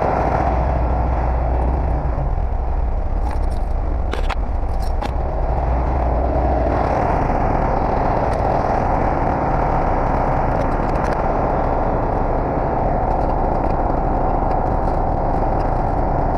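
Heavy truck engine running steadily, with a few metallic clanks about four to five seconds in; its deep low rumble eases off about seven seconds in.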